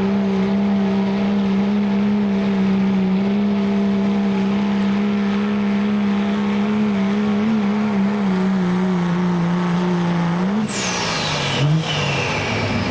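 Turbo-diesel pickup truck engine held at high revs under full load while pulling the sled, with a steady high turbo whine over it. About ten and a half seconds in the throttle is lifted: the engine note drops and the turbo whistle winds down.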